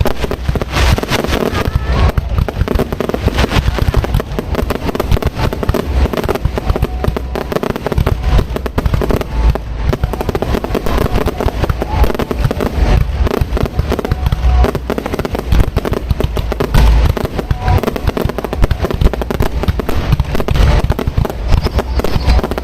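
Aerial fireworks display: a dense, unbroken barrage of shell bursts and crackles, with no pause.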